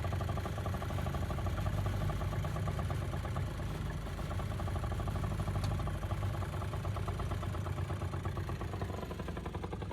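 Small engine running steadily with a fast, even pulse and a strong low hum, the motor of a belt-driven ride-on track train.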